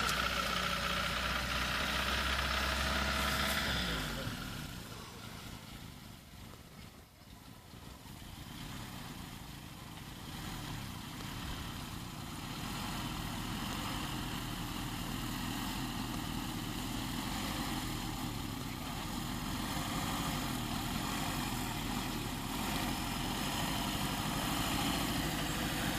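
Lada Niva's engine running as it drives through a ford. It is loud for the first few seconds, fades to its quietest about seven seconds in, then comes back as a steady running note.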